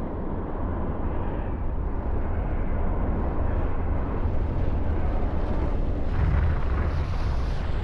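Deep, steady rumbling roar of an eruption of the Soufrière Hills volcano, with pyroclastic flows running down its slopes. It builds slightly, and a brighter hissing rush joins about six seconds in.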